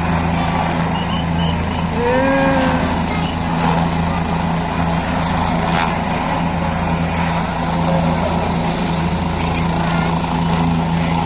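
Helicopter running steadily on the ground with an unchanging low hum, with the voices of onlookers calling out over it.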